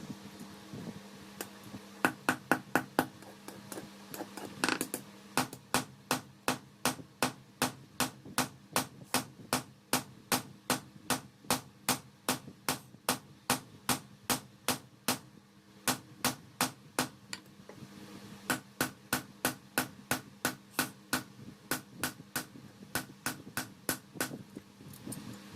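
Hand hammer striking steel on an anvil in a steady rhythm of about three ringing blows a second, forging a khukuri blade. There are a few short pauses, and a steady low hum runs underneath.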